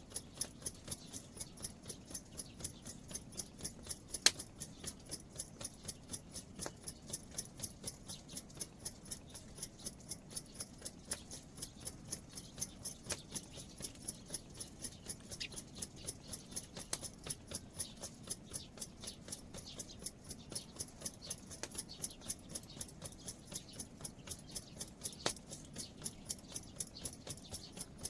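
An insect chirping in a steady, even rhythm of short high-pitched pulses, several a second, with one sharp click about four seconds in.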